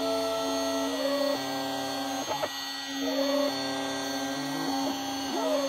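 Shapeoko 5 Pro CNC router running a pocket toolpath. The spindle holds a steady hum, while the stepper motors whine at pitches that change in steps and glide up and down as the axes speed up and slow down between moves.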